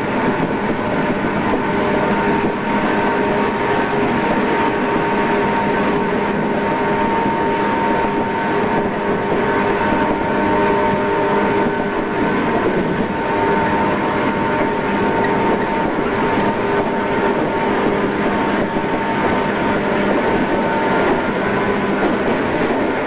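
A JR East 113-series electric train running at a steady speed, heard from inside a passenger car. Steady traction-motor hum with several held tones sits over an even rumble from the wheels and track.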